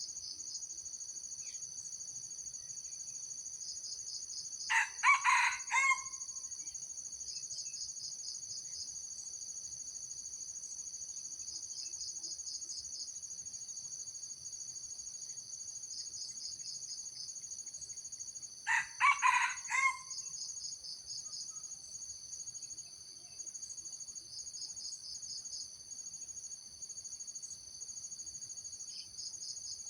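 A junglefowl rooster crows twice, each crow short and clipped, about fourteen seconds apart. Under it runs a steady high insect chorus with a repeating pulsing trill.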